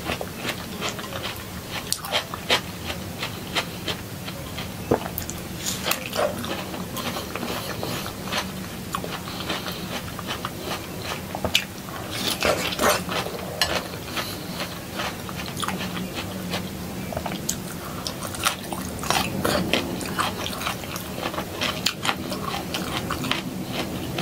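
Close-miked mukbang eating sounds: a person biting and chewing soft food, raw tomato among it, with many short wet mouth clicks and smacks scattered throughout.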